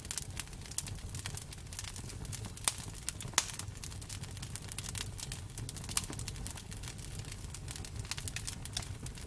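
Campfire burning, with wood crackling and popping in irregular sharp snaps over a low steady rumble of the flames. A few louder pops stand out near the middle.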